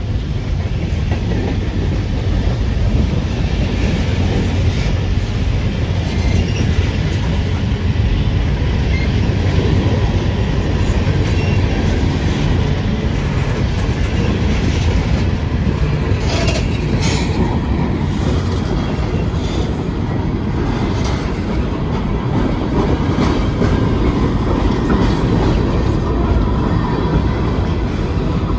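Train rolling past on the rails: a loud, steady rumble of railroad cars, with a few sharper clanks and wheel squeals a little past halfway.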